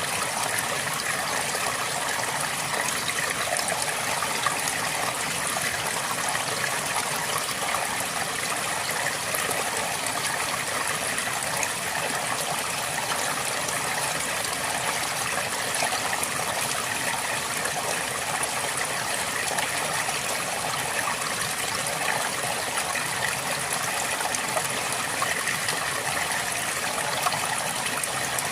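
River water flowing steadily over stones, an even rushing and babbling with small splashes throughout.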